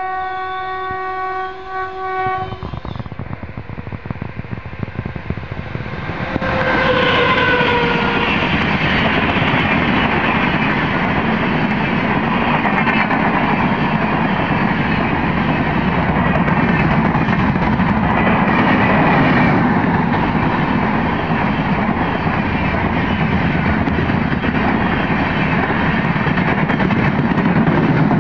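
Express passenger train sounding a long steady horn that cuts off about two and a half seconds in. About six seconds in, the locomotive rushes past with a short horn note that drops in pitch. Then come a loud, steady rumble and the clatter of LHB coaches' wheels passing at speed.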